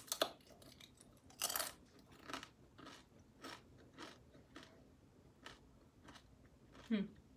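Homemade corn chips being bitten and chewed close to the microphone. A loud crunch comes about a second and a half in, followed by steady crunchy chewing, roughly two crunches a second.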